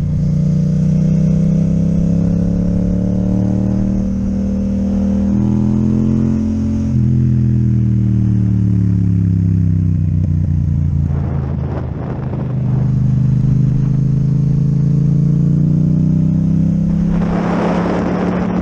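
Yamaha MT-07 parallel-twin engine through an Akrapovic exhaust, running under way: the engine note climbs, drops sharply about seven seconds in, sags, then climbs again. A rushing noise comes in briefly in the middle and again near the end.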